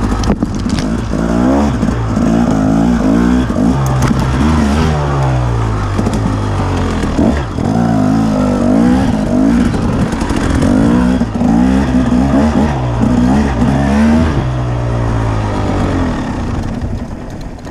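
Husaberg dirt bike engine revving hard, its pitch rising and falling again and again under load as the bike is ridden out of the creek, then fading away near the end.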